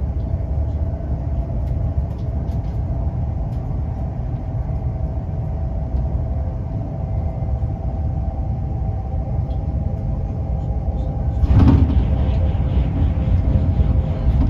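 Inside a Class 350 Desiro electric train at speed: a steady low rumble of the wheels on the track, with a few held steady tones. Near the end, a train passing on the next track brings a sudden, louder rush of noise that stays up to the end.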